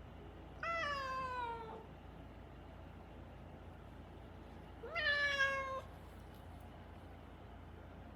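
A young Siamese-mix cat meowing twice: a long call that falls in pitch, then about three seconds later a shorter call that rises sharply and then eases down. These are the insistent cries of a cat confined indoors, which the owner takes as the sign that it will not settle as an indoor cat.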